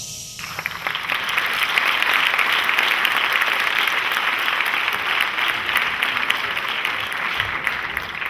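Theatre audience applauding: clapping starts about half a second in, builds quickly and holds steady.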